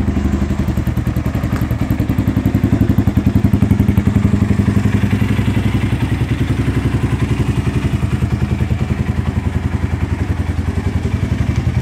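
UM DSR Hipersport 230 motorcycle's single-cylinder engine idling steadily with an even, regular beat.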